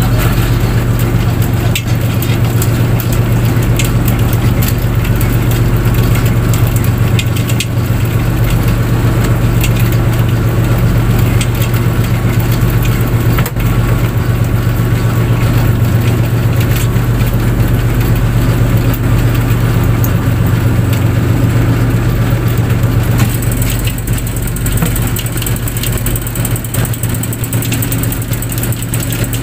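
Fishing boat's engine running steadily with a deep, constant drone, overlaid with rushing noise and scattered knocks. The hiss grows brighter in the last few seconds.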